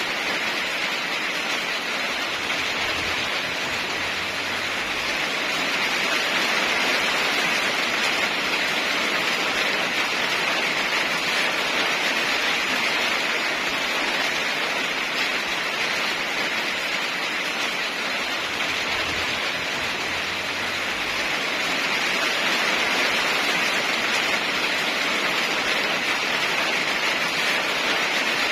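Steady heavy rain: a dense, even hiss of falling water that swells slightly in loudness a couple of times.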